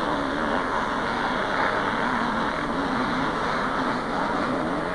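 Several 500 cc two-stroke motocross bikes racing, their engines revving up and down.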